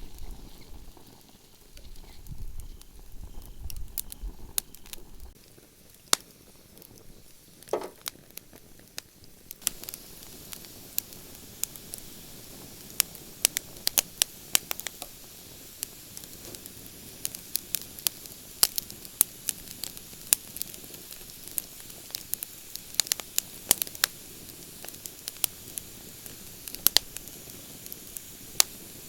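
Wood campfire burning, with sharp crackles and pops that come thick and fast. About ten seconds in a steady hiss sets in. A brief whistle comes just before it, and there is a low rumble in the first few seconds.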